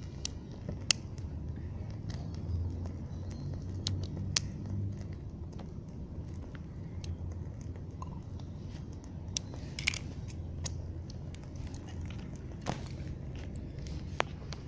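Small fire of burning potato chips giving irregular sharp crackles and crunches, about a dozen over the span, over a steady low rumble.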